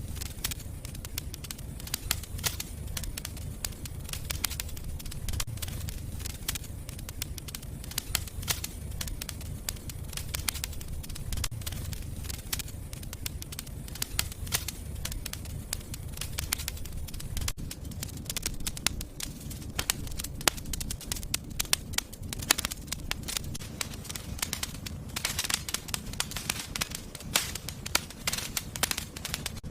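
Wood fire crackling in a fireplace: many sharp pops and snaps over a low, steady rumble of the flames. The crackling grows denser near the end.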